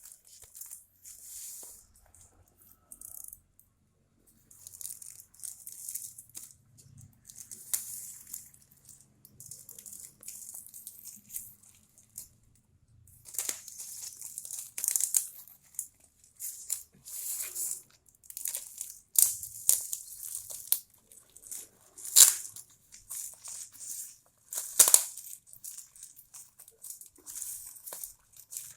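Parcel packaging being torn open and crumpled by hand: irregular crinkling and ripping in short bursts, with two louder rips in the last third.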